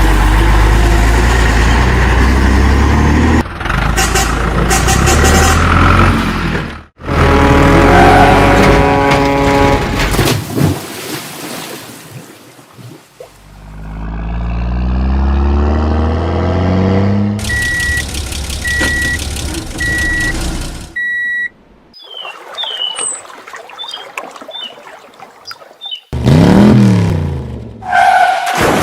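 A string of truck sound effects: a low engine running, a sharp cut, an engine rising steadily in pitch, then four short even beeps about a second apart like reversing beeps, and near the end an engine revving up and down.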